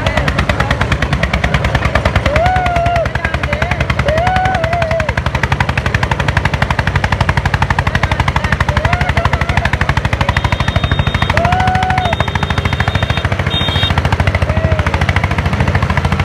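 Single-cylinder Eicher tractor diesel engine pulling under full load, its exhaust firing in a rapid, loud, even chug, over the steady hum of the other tractor's engine. Short pitched tones rise and fall over it several times.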